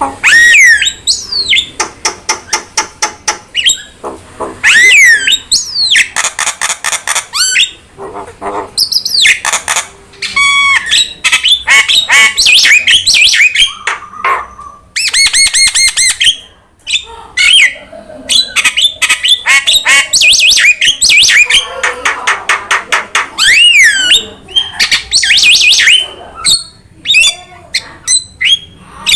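Jalak (starling) song: a loud, varied string of harsh squawks, fast rattling trills and rising and falling whistles, one phrase after another with hardly a pause.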